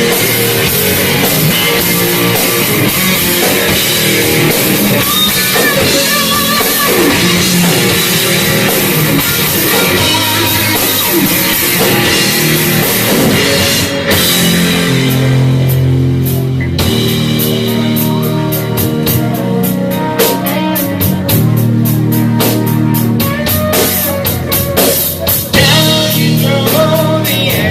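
Live heavy rock band playing an instrumental passage: distorted electric guitars, bass and drum kit. About halfway through the drums and cymbals drop out for a couple of seconds, leaving a low held guitar and bass note, then the full band crashes back in with fast, busy drumming.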